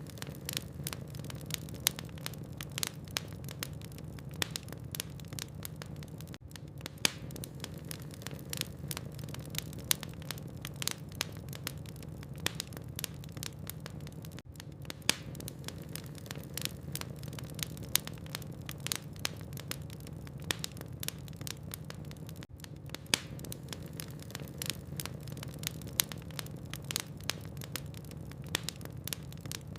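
Burning logs in a fireplace crackling steadily: many small, irregular pops and snaps, a few sharper ones, over a low steady hum.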